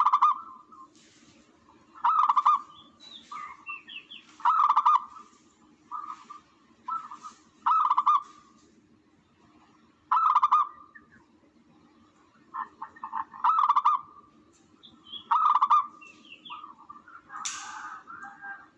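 Recorded tukmo (spotted dove) call played as a hunting lure: a short cooing phrase repeated every two to three seconds, over a steady low hum.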